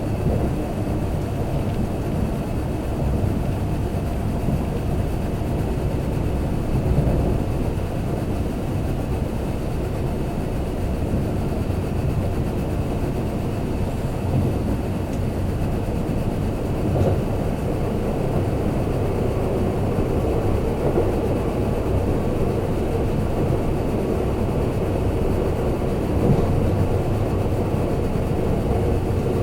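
Kintetsu limited express train running between stations, heard from inside the passenger car: a steady low rumble of wheels on rail and running gear with no marked change in speed.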